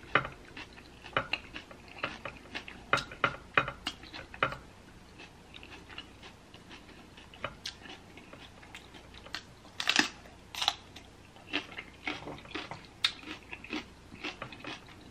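Close-miked chewing of boiled egg and mini peppers in sauce: wet mouth clicks and small crunches in clusters, with a lull about five seconds in before the chewing picks up again, two louder smacks near ten seconds.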